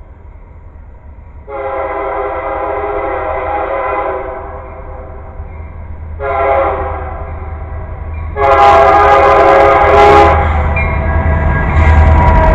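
Diesel locomotive air horn sounding a long blast, a short blast, then another long blast as the train approaches. This is the pattern of the grade-crossing warning signal. In the last second the rumble of the oncoming train grows loud.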